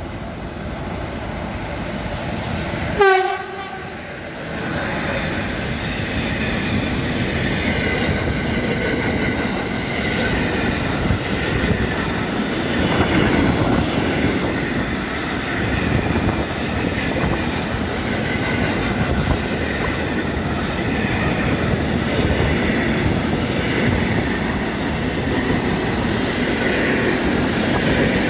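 An electric freight locomotive gives one short horn blast about three seconds in as it approaches. The container freight train then runs past close by, a dense, steady noise of wheels and wagons on the rails that holds loud to the end.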